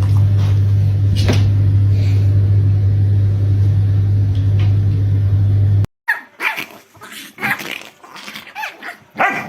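A loud, steady low mechanical hum that cuts off abruptly about six seconds in, followed by a string of short, high whining and yipping cries from a pet animal.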